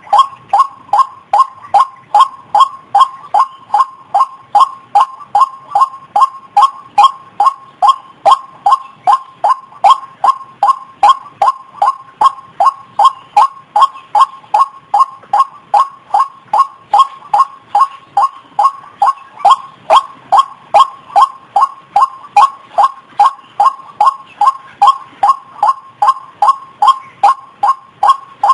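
White-breasted waterhen (ruak-ruak) giving its call as a long, monotonous run of short, evenly spaced notes, a few each second, without a break.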